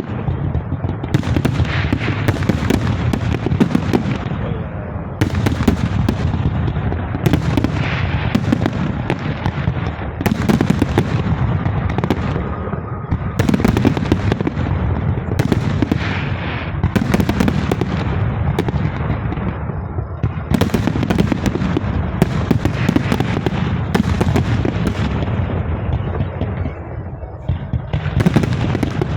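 Fireworks display: a dense, continuous barrage of aerial shell bursts, with overlapping bangs and crackling that fades after each volley.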